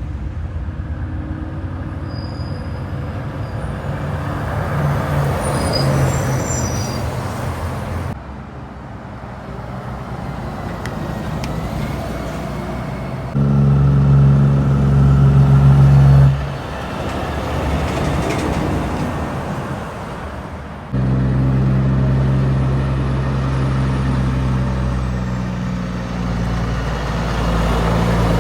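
Heavy trucks going by on a highway, their diesel engines running with a steady low note. The sound cuts abruptly from one pass to the next several times.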